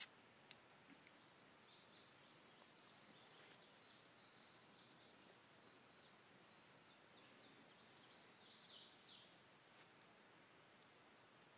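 Faint bird song: a rapid, jumbled run of short, varied high chirps and whistles that stops about three quarters of the way through, over near-silent outdoor background.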